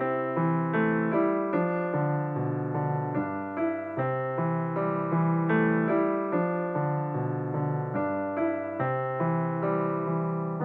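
Background piano music: a gentle melody with chords, notes changing about twice a second.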